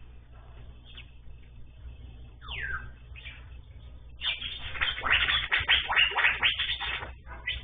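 Small songbirds calling: a couple of single downward-sweeping calls about two and a half and three seconds in, then about three seconds of dense, loud, rapid chattering song from about four seconds in, over a low steady hum.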